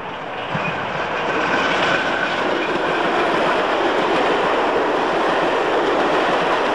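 A passenger train running past close by: the noise of its coaches' wheels on the rails, growing louder over the first second or two and then holding steady.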